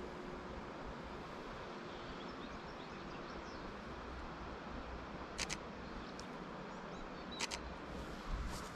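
Camera shutter of a Fujifilm X-H2 released twice, about two seconds apart, each a short double click, over a steady outdoor background.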